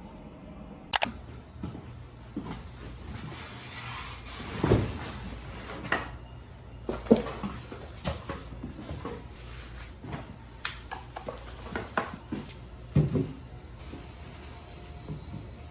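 Irregular knocks, clicks and light clatters of household objects being handled and set down, a dozen or so separate strikes with the sharpest about 7 and 13 seconds in.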